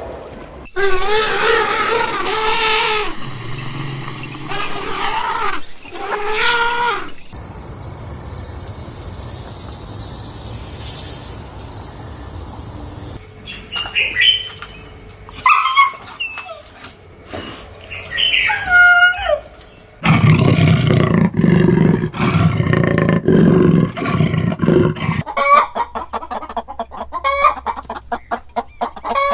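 A run of different animals' calls in turn: pitched calls, a hissing stretch, chirping gliding calls and a low rough stretch, ending with a chicken clucking rapidly.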